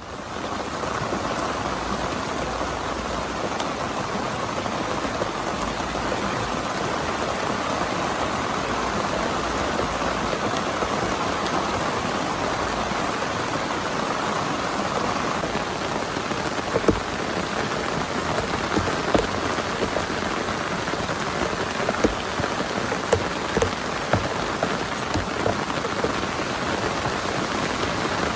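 Heavy rain falling steadily, with scattered louder drop hits standing out from about halfway through.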